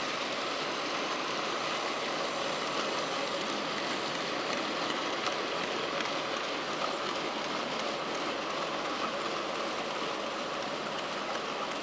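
Model train running, a steady even rushing noise with faint scattered ticks.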